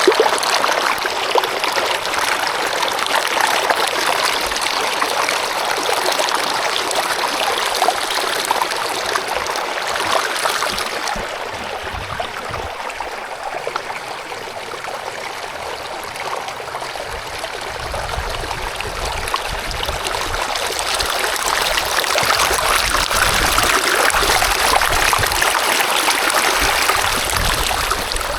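Steady rush of running water, like a stream or trickling water. A low rumble joins about two-thirds of the way through.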